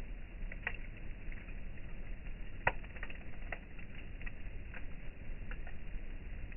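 Campfire crackling: irregular sharp pops and snaps of burning wood over a steady low rumble, with one louder pop about two and a half seconds in.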